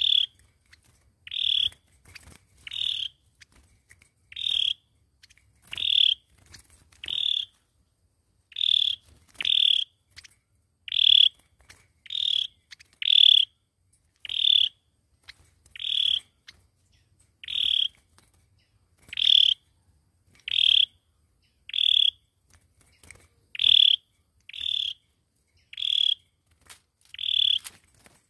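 A sâu dừa bird calling over and over: short, high notes repeated about every second and a half, sometimes two close together, a lure call of the kind used to draw the birds in for trapping.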